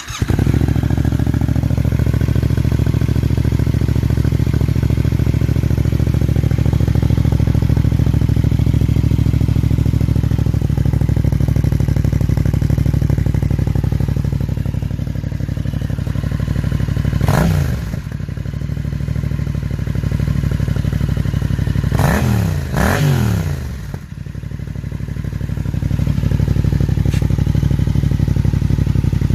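Yamaha MT-07's parallel-twin engine through an Ixil Hyperlow exhaust with its baffles in. It fires up and idles steadily, is blipped once a little past the middle, then twice in quick succession, each time dropping back to idle.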